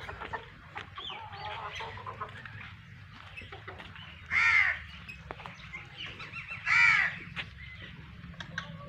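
A crow cawing twice, two loud harsh calls about two and a half seconds apart, over faint bird chirps and a low steady hum.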